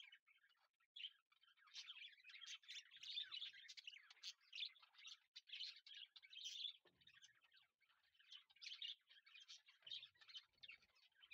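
Faint chirping of birds: many short, high calls in quick succession.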